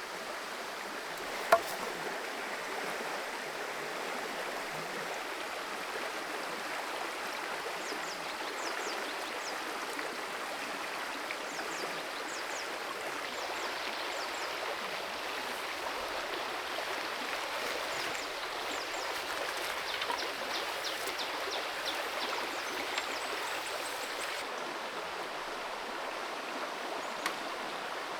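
Forest creek water flowing steadily. There is one sharp click about a second and a half in and a few faint ticks later on.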